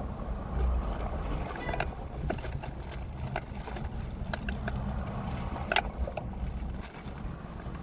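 Steady low rumble with scattered small clicks and taps, one sharper tap near the end.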